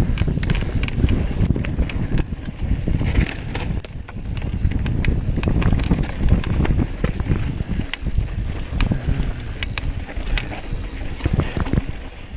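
Mountain bike riding fast over a dry dirt trail: tyres rumbling over the ground, with the chain and frame rattling and clicking over bumps, and wind buffeting the microphone.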